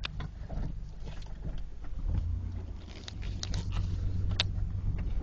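Chevrolet S10 pickup's 4.3-litre V6 engine running as the truck is driven, a steady low hum that grows louder about two seconds in, dips briefly near three seconds and then picks up again, with light clicks and rattles.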